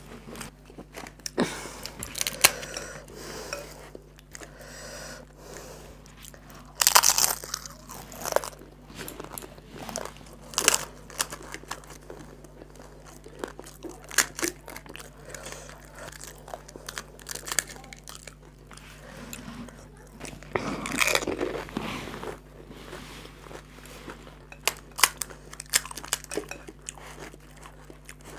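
Crisp, hollow fried fuchka (pani puri) shells crunching as they are bitten and chewed close to the microphone, mixed with small crackles as shells are cracked open by a fingertip. The crunching comes in uneven spells, loudest about seven seconds in and again around twenty-one seconds.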